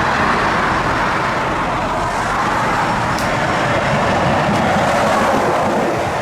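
Tow truck's engine running steadily under load, with a continuous rushing rumble.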